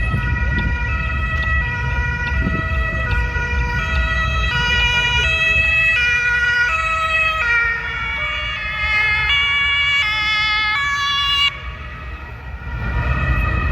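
German police two-tone siren (Martinshorn) sounding its alternating high-low 'tatü-tata' pattern, switching about every 0.7 s over traffic rumble. Its pitch drops slightly as the vehicle goes past, and the siren cuts off abruptly near the end, leaving road noise.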